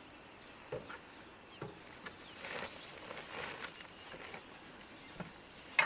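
Insects buzzing faintly and steadily in a rice field, with scattered rustles and light taps, and one sharp click near the end.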